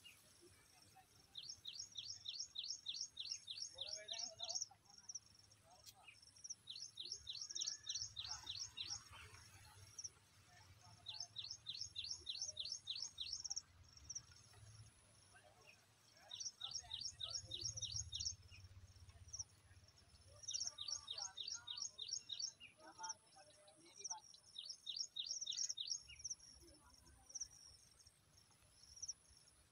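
A bird calling in six bursts of rapid, high chirping notes, about ten notes a burst at roughly four a second, with pauses of a second or two between bursts.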